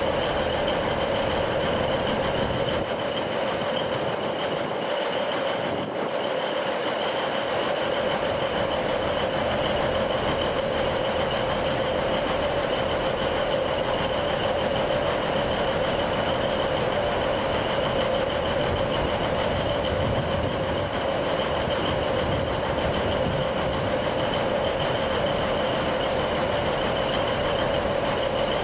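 Steady rail vehicle running noise: an even drone holding two constant tones, one mid-pitched and one high, with no change in pitch or level.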